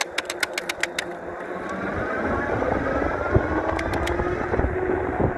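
A 5000-watt dual-motor electric bike accelerating in dual-motor mode: a quick run of about eight clicks in the first second, then the motors' whine slowly rising in pitch over a growing low rumble of wind and road.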